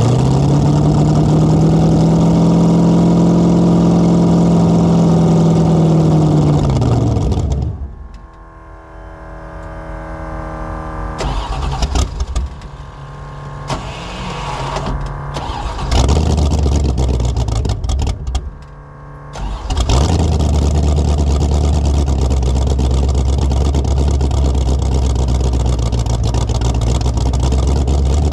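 Carbureted engine of a 1984 Fox Body Mustang drag car running cold with no choke: held at raised revs for several seconds, then it drops to a weak, uneven idle that nearly dies and is blipped several times before it settles into a steady low idle about two-thirds of the way in. Its 878 CFM carburettor is far too big for the roughly 350 hp motor, which makes it hard to keep running when cold.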